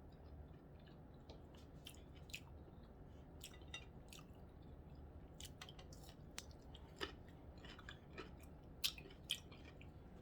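Faint chewing of a corned beef sandwich, with scattered soft wet mouth clicks at an uneven pace.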